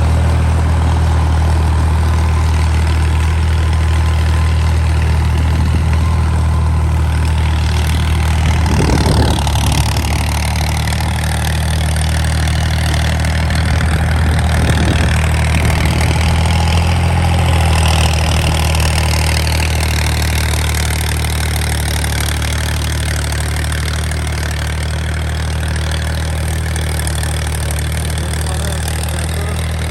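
Al-Ghazi 65 hp tractor's diesel engine running steadily while working a rotavator, with a couple of brief shifts in pitch about nine and eighteen seconds in.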